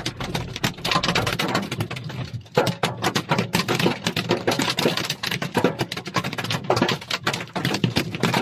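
Storm precipitation pattering densely and irregularly on a hard surface: many sharp little impacts a second.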